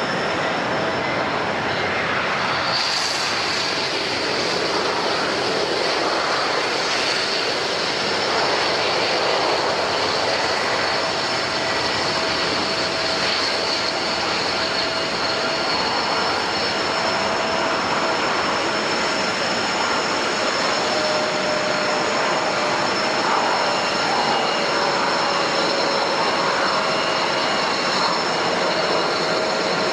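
Jet airliner engines running steadily, a continuous rushing noise with a high, steady whine that strengthens about three seconds in.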